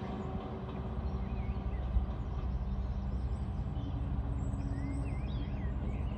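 Low rumble of a train receding into the distance, fading away, with small bird chirps over it.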